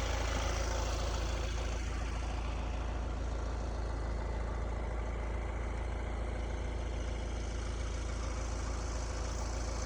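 Camper van driving, a steady low rumble of engine and road noise heard from inside the cab.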